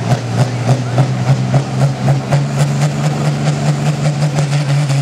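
Pulling tractor's engine idling, with regular knocks about four or five a second for the first two seconds; its steady hum then steps up slightly in pitch and holds.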